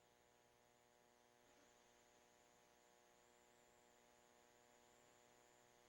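Near silence: a faint, steady electrical hum on the broadcast audio line.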